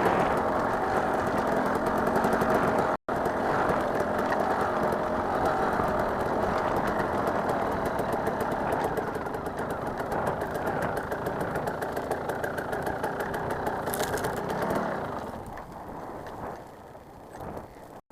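Dirt bike engine running steadily. The sound drops out completely for an instant about three seconds in, and the engine falls away about fifteen seconds in, leaving it much quieter.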